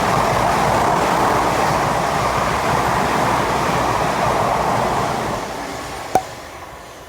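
Train noise, a loud steady rush that fades away over the last couple of seconds, with a single sharp click near the end.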